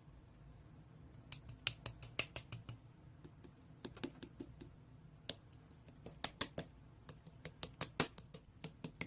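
Slime being pressed and stretched by hand, giving faint, irregular sharp clicks and pops that start about a second in.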